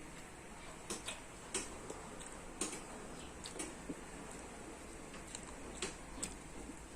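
Eating sounds: scattered soft clicks and taps, about one or two a second at uneven intervals, over a faint steady background hiss.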